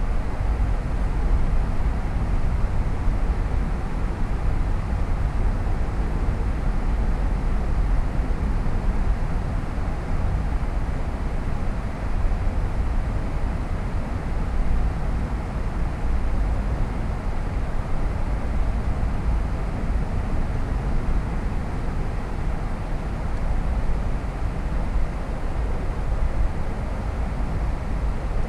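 Steady road noise of a car driving at speed: tyre and wind rumble, heavy in the lows, with no changes.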